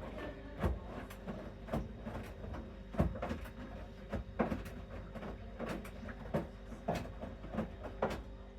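Bosch Series 6 front-loading washing machine in its main wash: a steady motor hum while the drum turns and the wet load tumbles, giving irregular thuds about once or twice a second.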